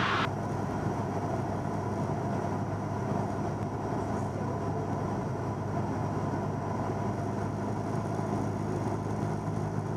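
Cessna 172N's four-cylinder Lycoming engine and propeller running steadily in flight, an even drone with no change in power.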